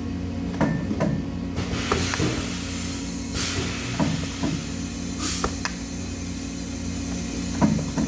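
Metalworking shop sounds: a steady electrical hum, with metal clinks and knocks scattered through and a few short hisses lasting about half a second each.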